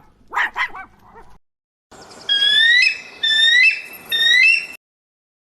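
A dog barking a few short times, then after a brief pause three high-pitched rising whines, each about half a second long.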